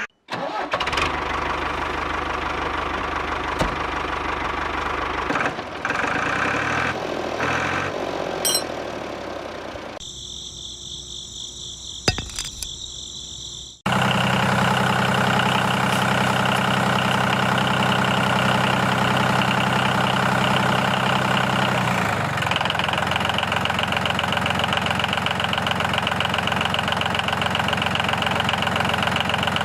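A tractor-type engine running at idle, in several separate stretches that change abruptly about 5, 10, 14 and 22 seconds in. Between about 10 and 14 seconds it drops to a quieter stretch with a high steady whine.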